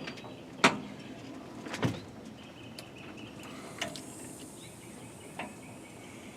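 Four sharp knocks spread over several seconds, the first the loudest, over a steady low background. Faint bird chirps sound in between.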